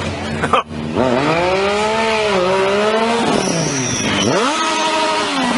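Motorcycle engine revving hard, its pitch sweeping up, cutting out briefly about half a second in, then rising and falling and climbing again about four seconds in.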